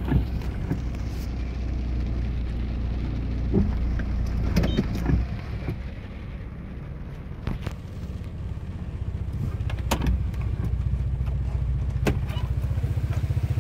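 Car engine idling, heard from inside the car, with a few sharp clicks and knocks over it. The hum eases for a couple of seconds in the middle, then comes back with a fast, even pulse.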